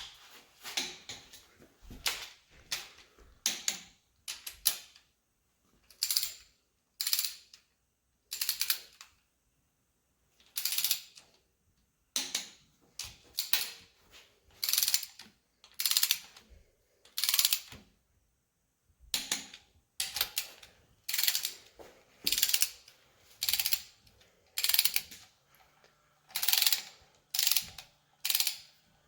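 Torque wrench ratcheting in short strokes as the rocker arm bolts on a 318 V8 are tightened down, about one burst of clicks a second with a couple of short pauses.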